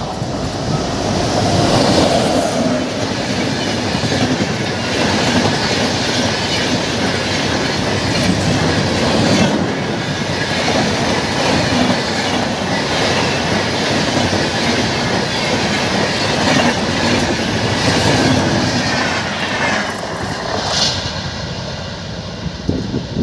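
Express train passing at speed over an open iron rail bridge: a loud, continuous rumble and clatter of wheels on the track and bridge girders that eases off near the end.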